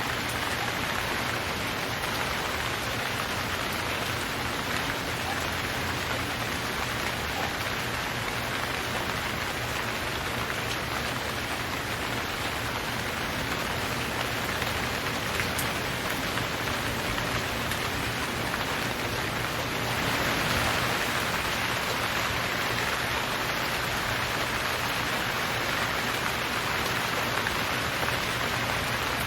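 Steady rain falling, a dense even patter of drops, a little heavier from about twenty seconds in.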